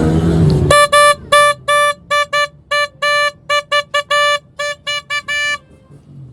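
Electric horn being tested after repair, sounding in about sixteen short, unevenly spaced beeps of one steady pitch, which stop shortly before the end.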